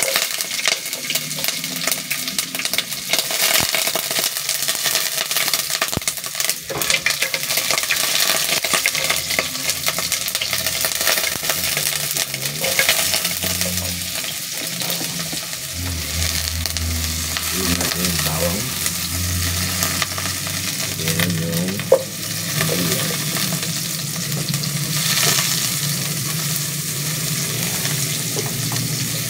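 Ginger, garlic and red onion sizzling as they fry in hot cooking oil in a pot, a steady hiss, with a ladle stirring and a few sharp clicks of it knocking against the pot.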